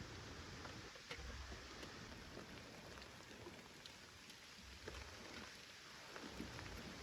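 Faint light rain falling, with scattered drops ticking.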